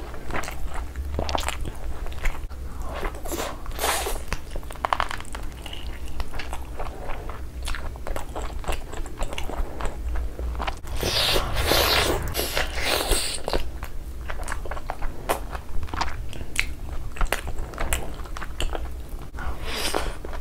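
Close-miked chewing and wet mouth sounds from eating a mouthful of fried rice and saucy fried chicken by hand, in irregular clicks and smacks. About eleven seconds in there is a louder, crunchier stretch of biting that lasts a couple of seconds.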